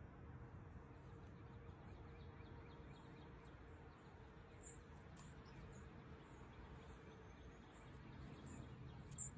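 Near silence: a faint low rumble with a few brief, faint, high-pitched bird chirps scattered through, the loudest near the end.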